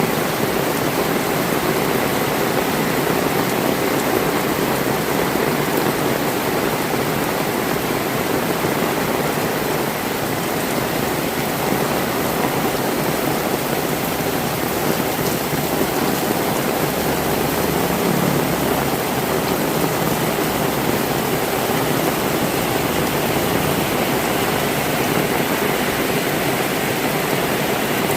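Heavy rain falling steadily, an even hiss of rainfall on roofs and wet ground.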